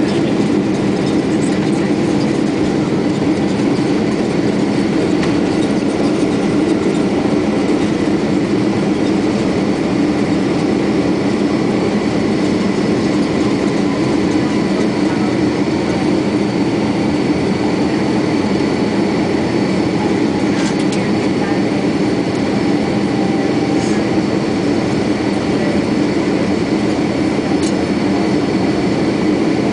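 Steady cabin noise inside a Boeing 767-400 airliner: a loud, even rumble of engines and airflow with a faint steady high whine, and a few faint clicks in the second half.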